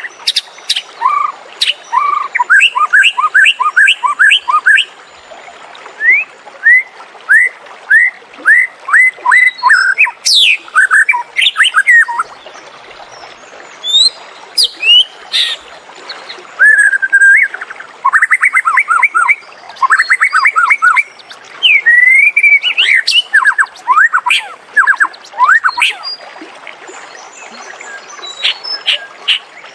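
White-rumped shama singing: varied phrases of clear whistled notes and fast runs of repeated chirps, broken by short pauses.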